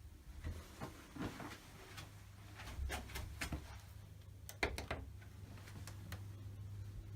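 Scattered knocks and clicks over a steady low hum, the sharpest knock about four and a half seconds in.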